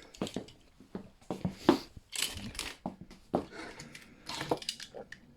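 Die-cast toy trucks and plastic track being handled: irregular clicks, light clatter and rustling, with a louder rustle a little past two seconds in.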